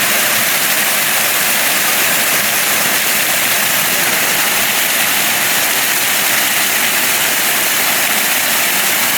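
Waterfall crashing down close by: a loud, steady rush of falling water that does not change.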